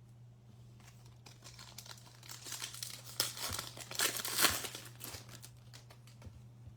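Baseball card pack wrapper being torn open and crinkled by hand, loudest a little past the middle, over a steady low electrical hum.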